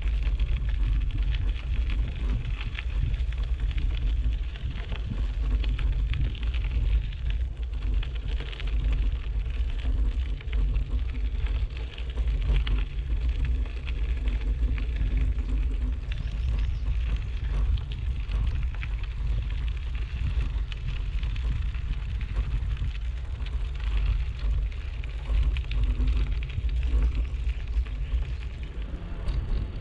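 Wind buffeting a GoPro action camera's microphone on a moving bicycle: a loud, gusting rumble with the hiss of riding beneath it.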